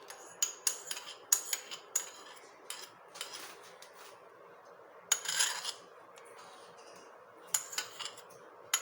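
A spoon clinking and scraping against a small bowl as curd is spooned out, in a run of short taps and scrapes with a longer scrape about five seconds in.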